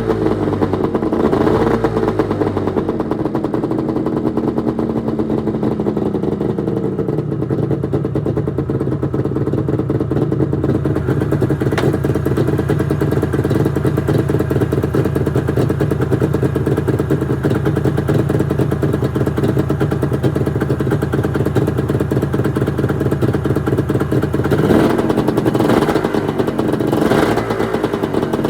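1996 Arctic Cat ZRT 600's three-cylinder two-stroke engine running on a cold start with a freshly rebuilt fuel pump. It revs and falls back near the start, settles into a steady idle, then is revved twice near the end.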